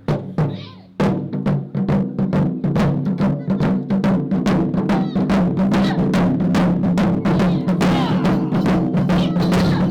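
Japanese taiko drums: a couple of single strikes, then from about a second in a fast, steady barrage of beats.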